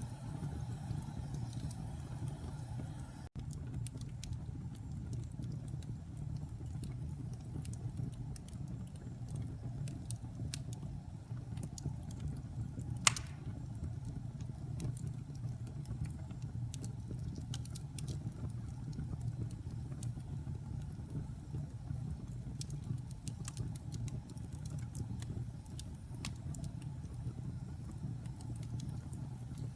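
Wood fire burning in a fireplace: a steady low rumble of flames with scattered small crackles and one loud pop about thirteen seconds in.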